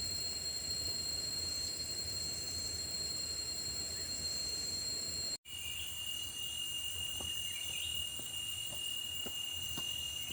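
Insects trilling in continuous high, steady tones over the steady rush of a forest stream. About halfway through the sound cuts out for an instant, and after it the insect tone is lower-pitched, with a few faint clicks.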